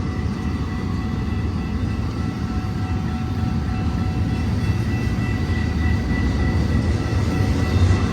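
Eastbound BNSF intermodal freight train rolling by, a steady low rumble of locomotives and wheels on rail, with a thin high tone held throughout.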